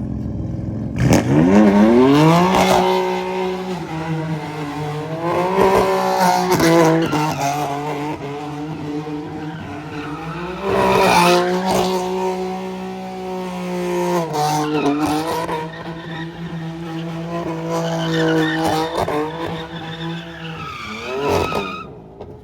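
A car doing a spinning burnout: its engine revs sharply up about a second in and is held at high revs, dipping and climbing again several times, over the continuous screech of spinning tyres. It stops abruptly near the end.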